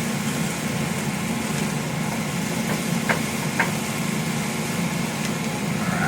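Steady low mechanical hum over a faint even hiss, with two light clicks a little past the middle.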